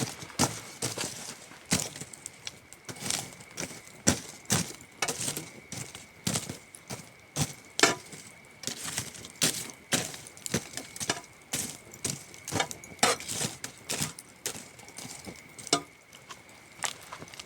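Wood campfire crackling, with irregular sharp pops and snaps several times a second, over a steady high cricket trill.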